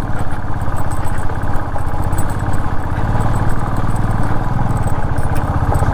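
Royal Enfield 350's single-cylinder engine running at low revs with an even firing beat, swelling slightly in the middle and near the end.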